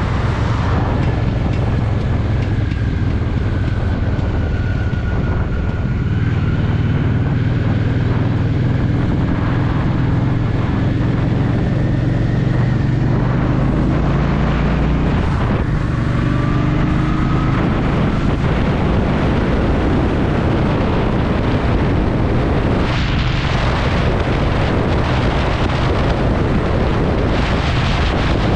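Honda Shadow VT750's V-twin engine running on the move, its note rising and falling with the throttle and changing about halfway through, with wind rushing over the microphone.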